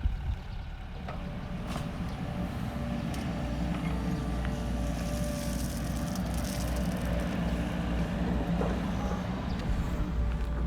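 An engine running steadily at a low, even speed, with a few faint knocks over it.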